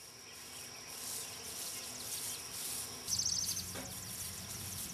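Faint outdoor field ambience: a steady high insect drone, with a short run of rapid high chirps about three seconds in and a low hum from then on.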